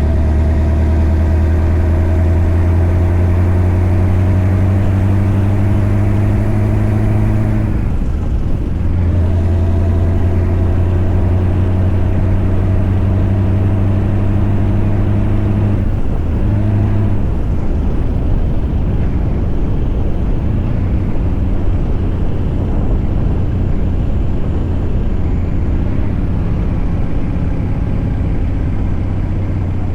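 Scania V8 truck engine running steadily under load. Its note breaks off briefly about eight seconds in and again around sixteen seconds, then runs on less evenly.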